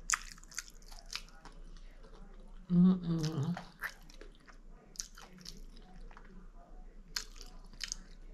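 A person chewing a mouthful of breakfast food, with irregular wet clicks and smacks of the mouth. A short burst of voice comes about three seconds in.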